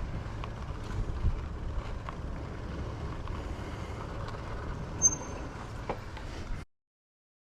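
Steady low rumble of wind and road noise from an e-bike ride, with a few light clicks and a short high tone about five seconds in. The sound cuts off suddenly near the end.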